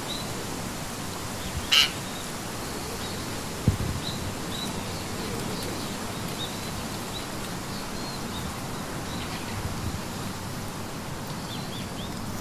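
Soft, short bird chirps repeating over a steady background hiss, with one short, loud squawk about two seconds in and a brief dull thump a couple of seconds later.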